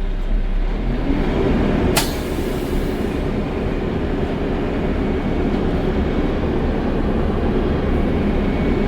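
Heavy diesel truck engine rising in speed about a second in, then running steadily under load, with a sharp burst of air hiss about two seconds in.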